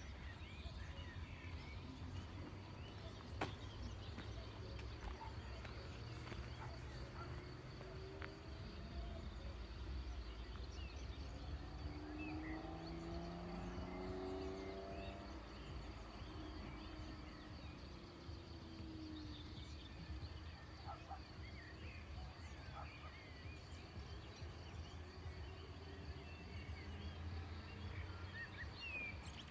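Outdoor ambience: a steady low rumble with faint, scattered short chirps, and one sharp click about three seconds in. Around the middle, a faint pitched sound with several tones rises and falls for a few seconds.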